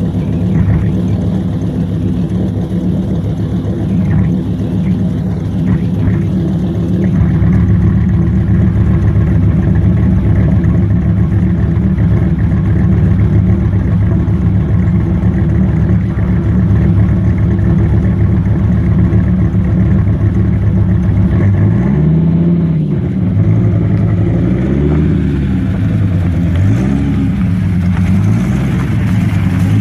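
Supercharged V10 of a 1996 Dodge Viper GTS, through a straight-pipe exhaust, idling with a steady deep drone. About 22 seconds in, the engine is revved up and back down once, then rises and falls gently a few more times.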